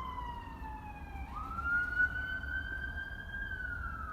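An emergency vehicle's siren wailing from the road: the pitch slides slowly down, jumps back up just over a second in and climbs, then starts falling again near the end, over a low rumble.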